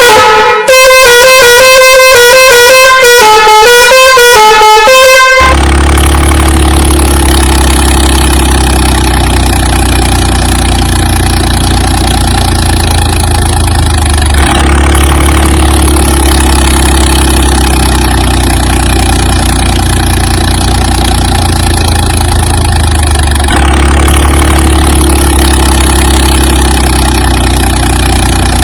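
A horn-like tone plays a short stepping melody for about five seconds, then cuts off. A steady, loud, low engine drone of a heavy vehicle takes over and runs on, with slight seams every nine seconds or so, as if looped.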